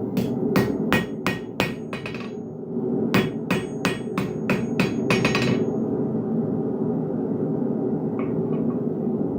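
Blacksmith's hammer striking hot steel on an anvil while forging a hook, about three ringing blows a second, in two runs with a short pause between. The blows stop a little past halfway, leaving a steady low rumbling roar.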